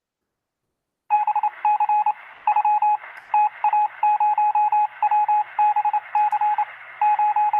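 Morse code: a single high beep keyed in quick dots and longer dashes over a hiss of radio static, starting about a second in.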